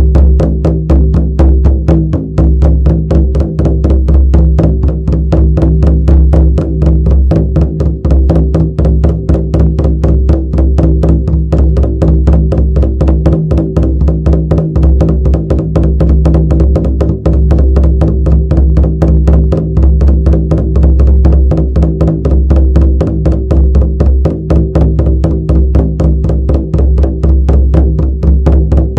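Shamanic frame drum beaten in a rapid, even, unbroken rhythm, each stroke leaving a deep ringing boom that carries on beneath the beat.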